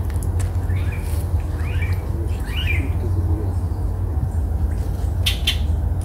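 A bird gives three short calls in the first three seconds over a steady low rumble, with a couple of sharp clicks about five seconds in.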